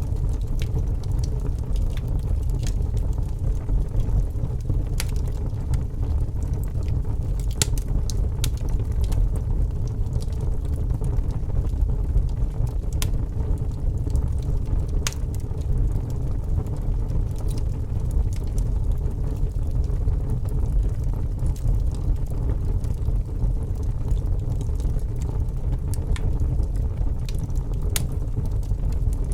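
Campfire burning: a steady low rumble with sharp wood crackles and pops now and then.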